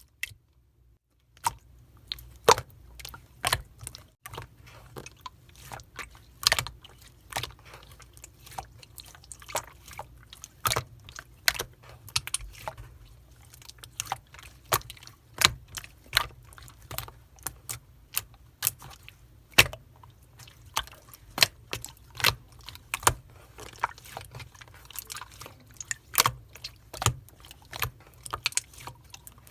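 Pink clear slime being pressed and squished by hand, giving irregular sticky clicks and pops, about one or two a second, starting about a second and a half in, over a faint low hum.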